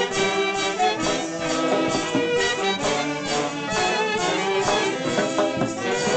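Andean fiesta orchestra playing traditional music with brass and violins over a steady beat.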